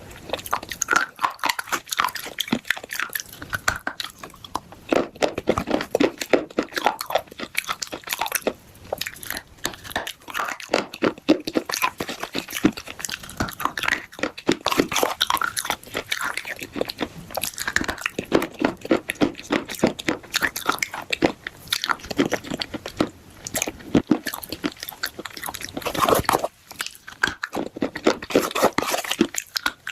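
Close-up crunching and chewing of pieces of a baked clay gullak (money box) coated with paste: dense, rapid crackling bites, with a short pause near the end.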